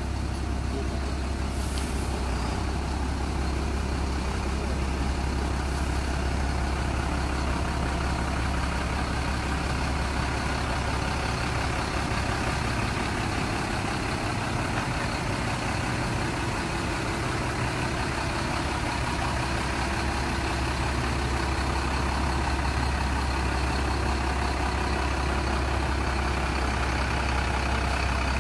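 Heavy diesel engine running steadily at a constant speed, with a deep, even hum.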